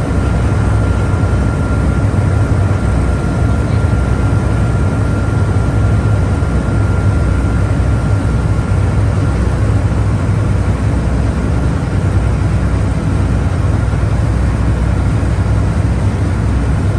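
A motorboat's engine running steadily at cruising speed, a loud, low, even drone, with a faint steady whine over it that fades about halfway through.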